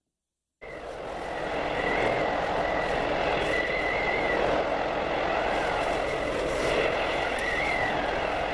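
Steady mechanical running noise that cuts in suddenly about half a second in, with a faint whine that wavers up and down in pitch.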